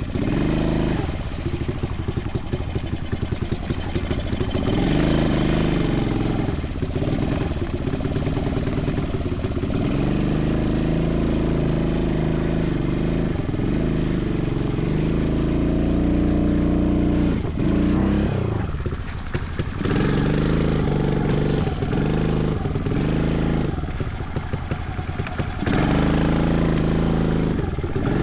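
Dirt bike engine revving hard during a burnout. It is held high for long stretches, then blipped up and down several times in quick succession.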